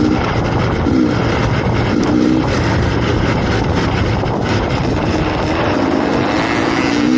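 Dirt bike engine running steadily as the bike is ridden, with a dense rushing noise over it and the engine note wavering slightly.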